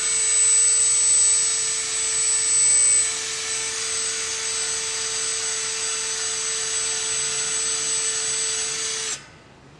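Power tool spinning a wire brush against a bed-liner-coated steel bumper, a steady high-pitched whine that is louder for the first three seconds, then runs evenly and cuts off about nine seconds in. The brush is not removing the coating.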